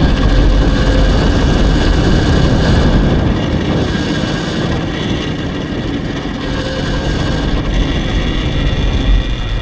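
Electric dirt bike on the move: wind rumbling heavily on the microphone, with several steady high whining tones from the electric drive. It eases a little about halfway through.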